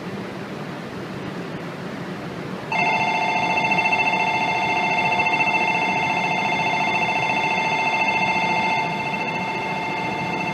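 Shinkansen platform departure bell: an electronic trilling bell of several steady warbling pitches that starts about three seconds in and keeps ringing, a little softer near the end, signalling that the train is about to leave.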